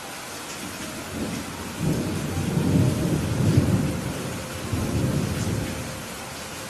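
Steady heavy rain with a long roll of thunder that builds about a second in, rumbles loudest in the middle and dies away near the end.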